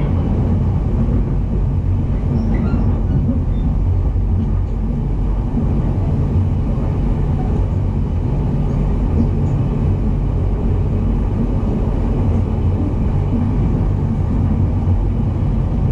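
E233-series electric commuter train running, heard from inside its motor car: a steady low rumble from the wheels and running gear on the rails.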